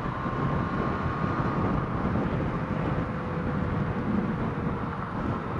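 Motorcycle on the move: steady wind rush on the rider's microphone with the engine's drone underneath.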